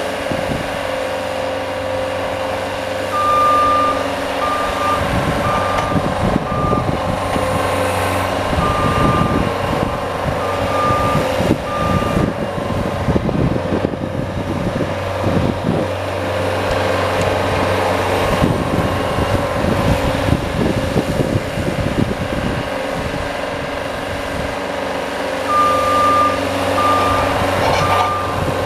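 A vehicle engine running steadily while a reversing alarm beeps in short repeated pulses, in one spell a few seconds in and another near the end. Through much of the first two-thirds there is a rough scraping noise over the engine, in keeping with a snow plow working.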